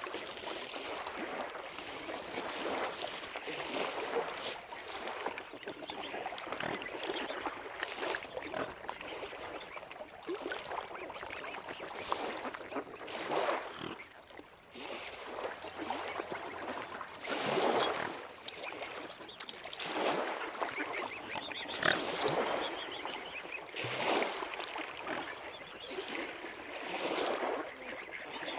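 Waterfowl calling, an irregular string of short calls, with louder ones about two-thirds of the way in.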